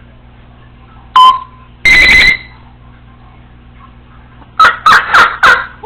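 Congo African grey parrot mimicking electronic beeps: a short sharp chirp about a second in, then a loud, even beep lasting about half a second. Near the end she gives four loud, sharp calls in quick succession.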